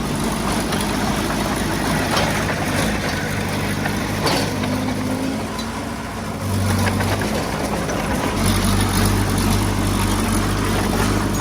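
Heavy earthmoving equipment engine running steadily. The engine eases off about six seconds in, then picks up again, with a couple of short knocks in the first half.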